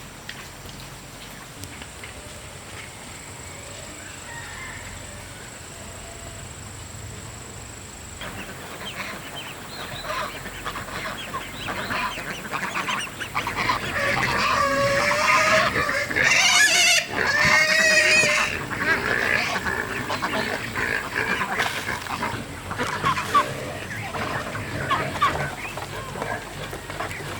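A flock of domestic fowl calling: scattered calls start about eight seconds in, build to a loud, crowded stretch in the middle, then thin out.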